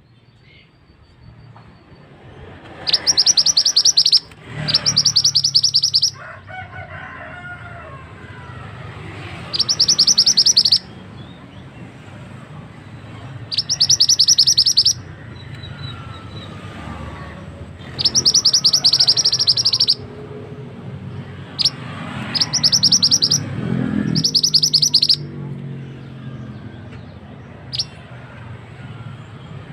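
Mantenan bird singing: about seven loud, rapid, high-pitched chattering trills, each lasting one to two seconds, with short pauses between them. A steady low rush of running water lies underneath.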